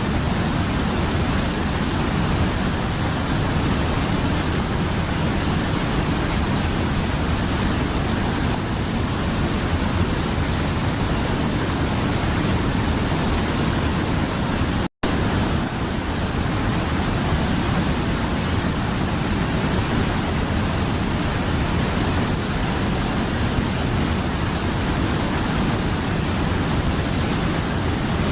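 Mountain river flowing: a steady rush of water, broken once by a split-second gap of silence about halfway through.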